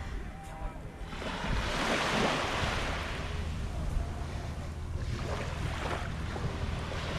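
Small waves breaking and washing up a sandy beach: one wash swells about a second in and fades, a second comes around five seconds in. Wind rumbles on the microphone underneath.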